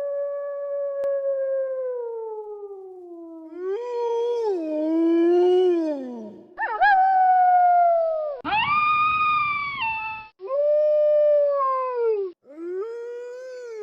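Wolves howling: a run of about six long howls, one after another and at times overlapping. Each howl holds its pitch and then slides down at the end. The loudest and highest is about two-thirds of the way through.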